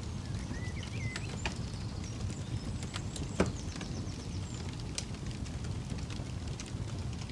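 Campfire crackling, with scattered sharp pops over a steady low rumble. One loud pop comes about three and a half seconds in.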